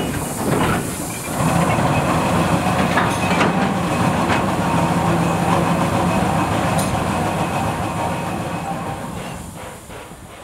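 Train of flat wagons with a Z152 steam crane rolling slowly along a siding: a steady rumble of wheels on rail with a hiss of steam, fading near the end.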